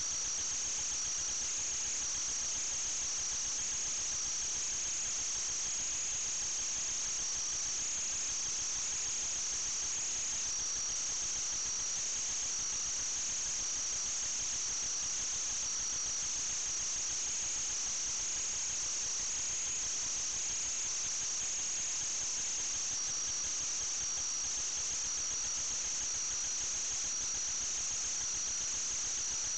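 A steady high-pitched whine over a constant hiss, unchanging in level throughout.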